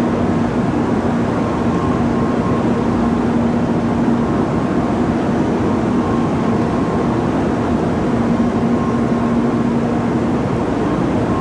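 Sanyo Shinkansen train running at the platform: a loud steady rumble with a faint hum that fades in and out.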